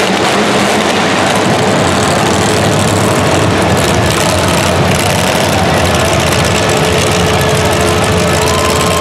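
Loud, steady engine noise from a heavy vehicle, unbroken throughout.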